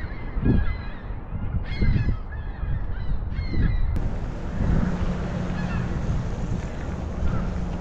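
Birds calling again and again, short calls in quick succession, over wind rumbling on the microphone. About four seconds in, the sound changes abruptly to steady wind noise on the microphone with a low hum underneath.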